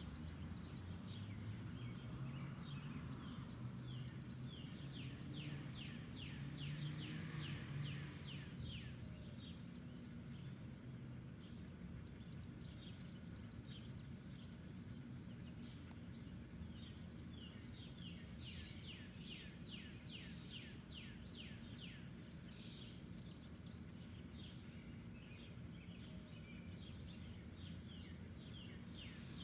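A songbird singing repeated runs of quick falling notes, about four a second, over a steady low background hum.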